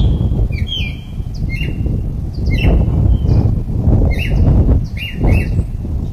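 A bird calling over and over with short, sharp chirps about once a second, over a loud, low, steady rumble.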